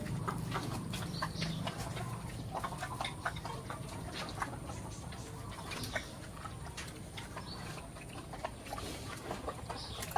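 Farm animal sounds: scattered short clicks and brief calls, with a low hum that fades out in the first two seconds.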